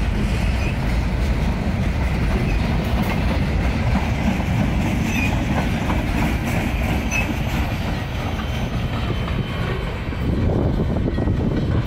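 Empty freight cars of a passing train rolling along the track: a steady rumble of wheels on rail with a few brief high squeaks.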